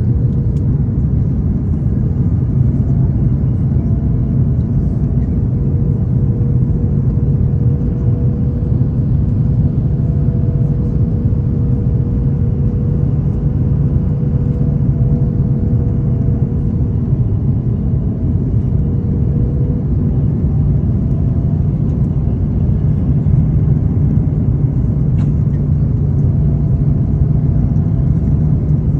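Jet airliner noise during landing: a loud, steady low rumble of engines and airflow, with a faint steady whine through the middle.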